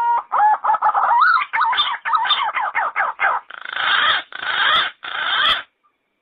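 Yellow-footed green pigeon singing: a quick run of short whistled notes that waver up and down in pitch, then three longer, rougher notes, stopping suddenly about five and a half seconds in.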